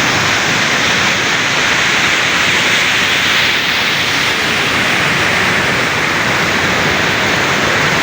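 A waterfall rushing in a loud, steady roar of falling water, close to the microphone.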